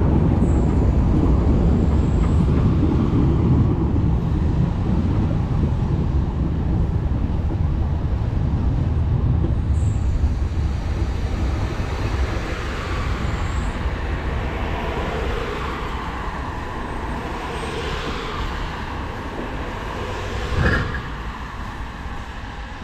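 Metre-gauge narrow-gauge train running on the track, its low rumble fading as it slows to a stop, with rising hissing and squealing of the brakes in the second half and a single thump near the end.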